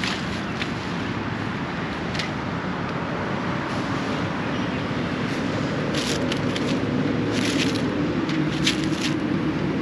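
Steady traffic noise from a nearby highway, slowly growing louder, with a few short crackles and snaps in the brush about two thirds of the way through.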